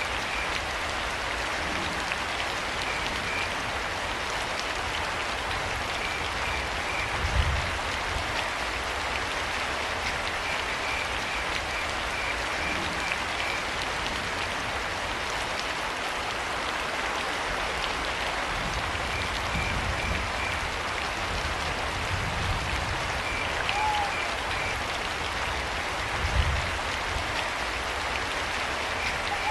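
Steady rain falling, with crickets chirping in short trains of quick high pulses every few seconds. Two low rumbles rise out of the rain, at about 7 s and again near the end, and a short higher call sounds just before the second.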